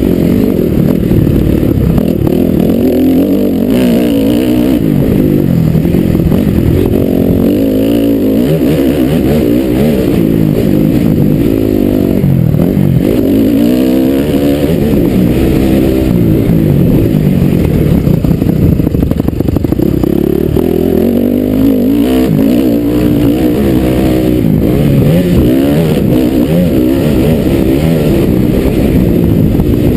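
Dirt bike engine heard close up from the rider's helmet, its revs climbing and dropping again and again as it is throttled and shifted over the track.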